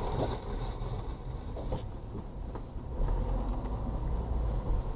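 Steady low rumble of a vehicle driving, road and engine noise picked up by a dashcam. A faint high whine fades out about two seconds in.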